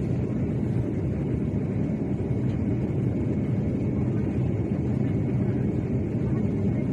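Steady low rumble of a vehicle in motion, an even drone with no breaks.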